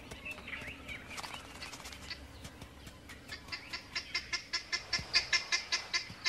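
Birds calling in the bush: scattered chirps at first, then from about three seconds in a rapid, evenly repeated series of sharp notes, about five a second, growing louder.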